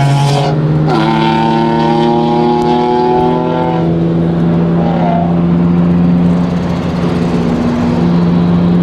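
BMW E46 engine running steadily while the car is driven on the road, a continuous drone whose pitch steps slightly about half a second in and again near the end.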